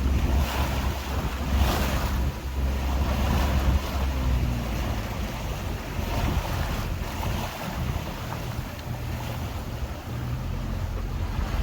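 Small tour boat under way: a steady low engine drone, with water rushing and splashing along the hull and wind buffeting the microphone.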